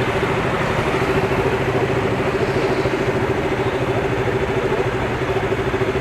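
Motorcycle engine idling steadily with an even, pulsing beat.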